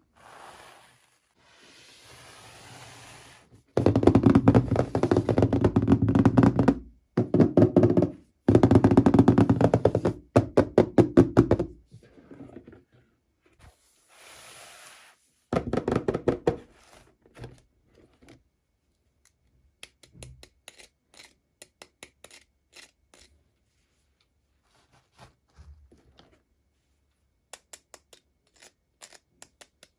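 Toy packaging and small plastic parts handled during an unboxing: bursts of fast, loud knocking and rattling, then scattered light taps and clicks.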